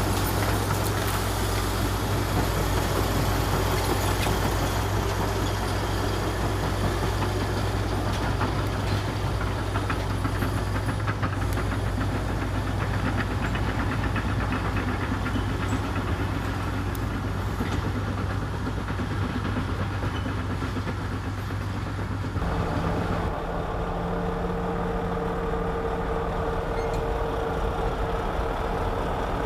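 Heavy diesel earthmoving machinery running steadily, with scattered light clanks. About 22 seconds in, the sound changes abruptly to a different steady hum with higher-pitched tones.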